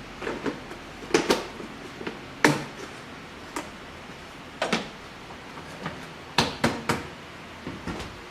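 Scattered sharp clicks and knocks of a coffee scoop and the espresso machine's grinder hopper being handled as coffee is scooped in, with a quick run of three knocks about six and a half seconds in.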